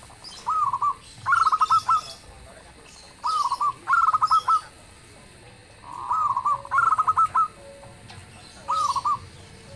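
Zebra dove cooing: three songs, each a rounded opening coo followed by a quick run of short staccato notes, with a fourth song beginning near the end.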